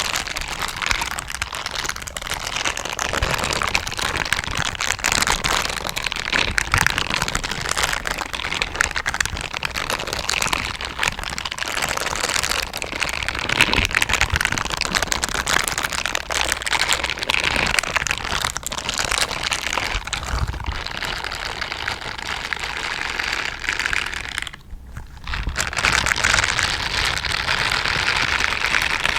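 Silicone brush gloves rubbing and scratching: a dense, crackly rustle of many fine bristle scratches, with a brief pause near the end.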